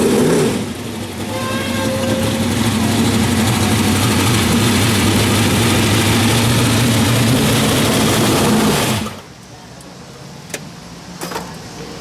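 Wingless sprint car racing engine running loud and steady, then cutting off suddenly about nine seconds in, leaving a much quieter background with a few sharp clicks.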